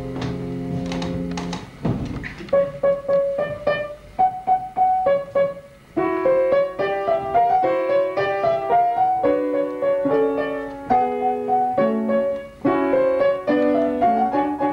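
Piano playing an instrumental interlude: held chords for about two seconds, then a lively passage of short struck notes and chords.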